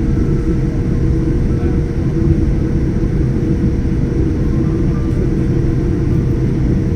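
Steady, loud drone of an airliner's cabin in flight: jet engines and airflow producing a constant low rumble with a held hum just under 500 Hz.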